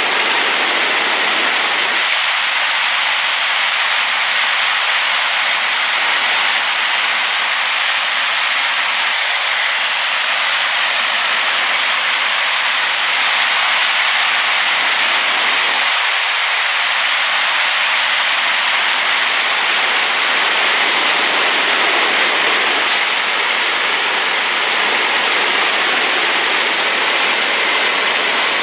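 Waterfall running high after rain, a loud, steady rush of falling water like white noise.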